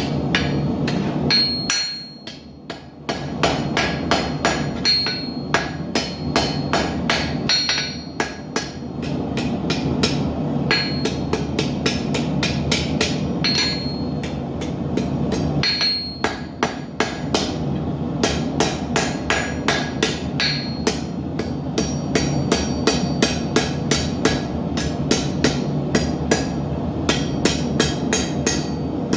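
Blacksmith's hammer striking hot steel on an anvil in rapid, regular blows, each with a short metallic ring, while forging an arrowhead, with brief pauses between runs of blows. A steady rushing noise runs underneath.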